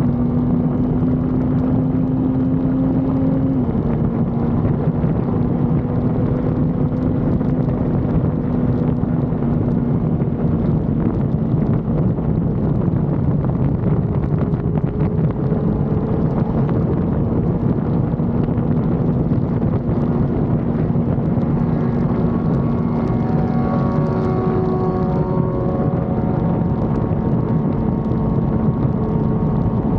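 Sport motorcycle's inline-four engine running at a steady cruise, with heavy wind rush on the microphone. The engine pitch drops slightly a few seconds in, and a second set of higher engine tones joins for a few seconds past the middle.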